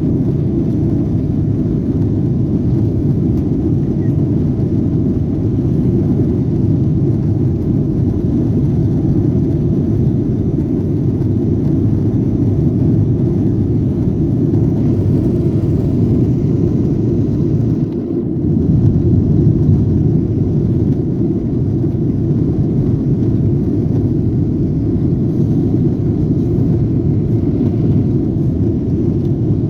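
Steady low rumble of a Boeing 777-200ER's engines and rushing air during takeoff, heard from inside the cabin. The rumble briefly dips and shifts about 18 seconds in.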